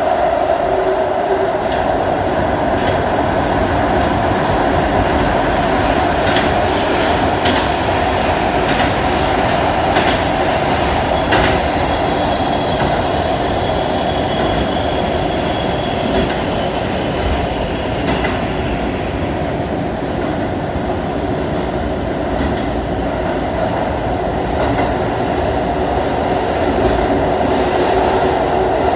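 Shibayama Railway 3500-series electric train running through a tunnel, heard from inside the car: a steady rumble of wheels on rail, with a few sharp clacks of rail joints about six to twelve seconds in and a faint thin squeal from the wheels midway.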